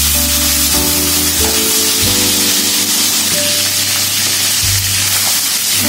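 Chicken pieces frying in hot oil in a wok, a steady sizzle, as they are half-cooked until they turn yellowish. Background music with held notes and a changing bass line plays over it.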